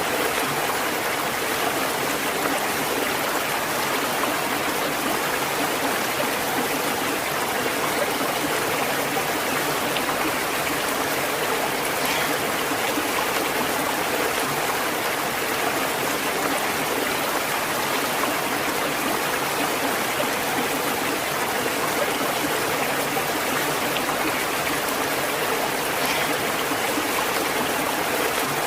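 Flowing stream water running steadily, an even rushing and babbling with faint splashes here and there.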